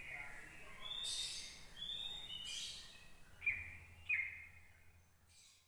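Sooty-headed bulbul calling: short whistled notes and chirps, with two sharp, louder notes a little past halfway, then fading out near the end.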